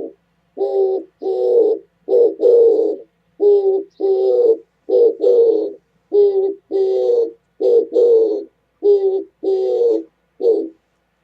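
Oriental turtle dove singing its hoarse, low cooing song close by: a steady series of paired coos, each a short note followed by a longer one, repeated over and over and stopping shortly before the end.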